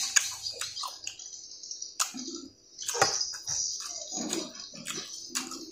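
Close mouth sounds of eating by hand: chewing and lip smacking on fried chicken and rice, with scattered small clicks, over a steady high-pitched hiss in the background.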